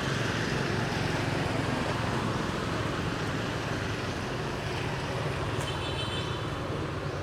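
Steady road traffic noise, a continuous rumble and hiss, with a brief high-pitched chirp a little before six seconds in.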